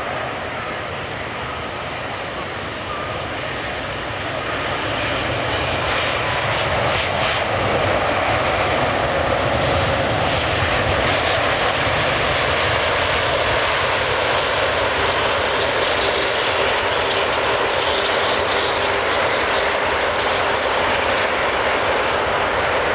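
The Airbus A380-841's Rolls-Royce Trent 970 jet engines make a steady noise, heard from the ground. It grows louder from about four to eight seconds in, then holds.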